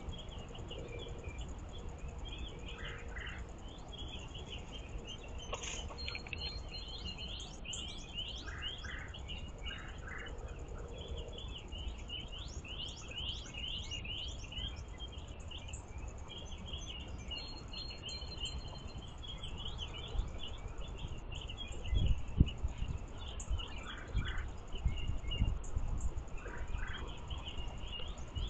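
Small songbirds chirping and twittering, with many quick high calls overlapping throughout. A few low thumps come in near the end and are the loudest sounds.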